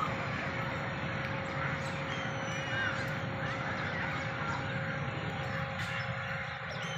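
Many birds chirping and calling over a steady noisy background, with a faint steady hum under them.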